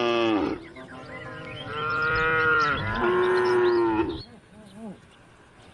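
Cattle mooing: one call tails off about half a second in, then two long moos follow back to back, from about a second and a half in to about four seconds.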